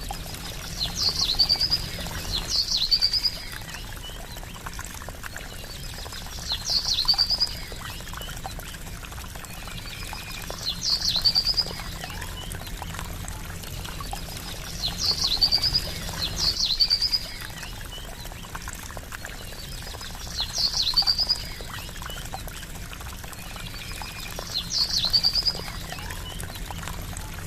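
Steady trickling water with a bird's short, high call repeating about every four seconds, sometimes twice in quick succession.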